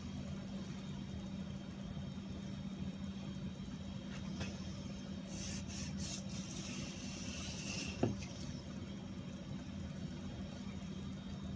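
A steady low mechanical hum, with a stretch of hissing from about five to eight seconds in and one sharp knock about eight seconds in.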